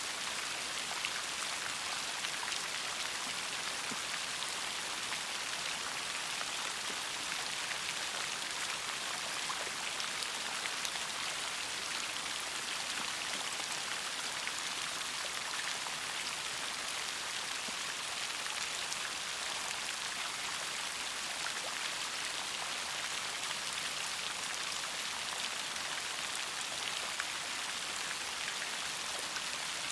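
Steady rain falling, a continuous hiss strongest in the high range with many fine droplet ticks.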